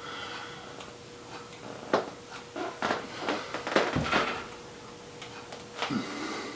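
Irregular knocks and clunks of objects being handled, a few of them sharper about two, three, four and six seconds in, over a faint steady hum.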